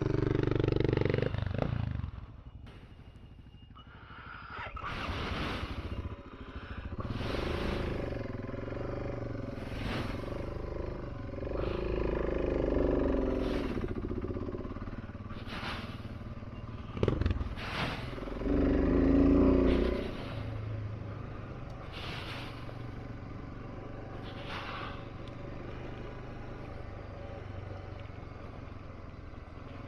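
650 cc single-cylinder dual-sport motorcycle engine running while the bike is ridden, quieter briefly near the start, then revving up and down. A short sharp knock comes every couple of seconds.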